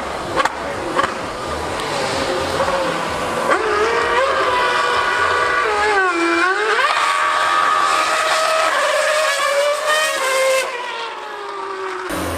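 High-revving V8 engine of a 2013 Formula 1 car screaming as it laps. Its pitch climbs, dips sharply and comes back up about six seconds in, then holds high before falling away near the end.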